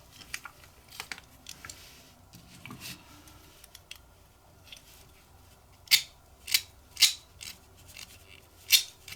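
Short metallic scraping strokes and small clicks as a screw is turned down to fasten the platform of a Win pipe lighter. Faint and scattered at first, the strokes turn louder about six seconds in and come roughly twice a second.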